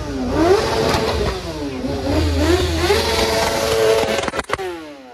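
Car engine revving, its pitch rising and falling several times, then a couple of sharp clicks and the pitch falling away as the engine quiets near the end.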